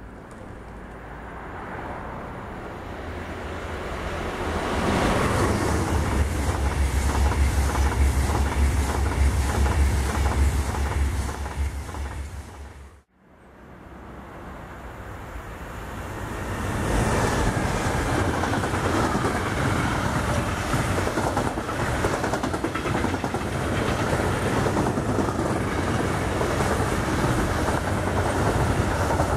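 Freight trains passing at speed on an electrified main line: a dense rumble of wagons with wheels clicking over the rail joints. The sound swells about five seconds in and breaks off suddenly near the middle. It then swells again as a train of container wagons rushes past close by.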